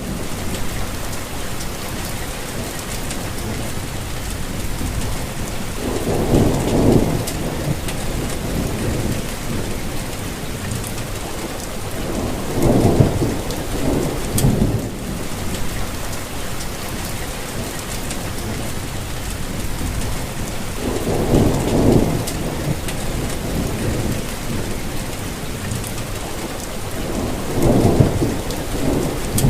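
Steady rainfall hissing, with low rumbles of distant thunder that swell and fade four times, each lasting a second or two.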